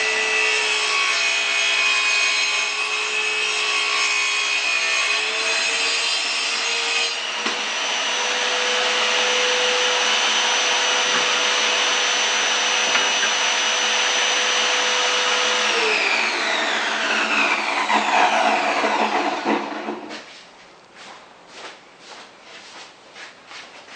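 An electric power tool's motor running steadily, its pitch shifting slightly a few seconds in. About sixteen seconds in it is switched off and winds down, falling in pitch over about four seconds before stopping, followed by a few light knocks.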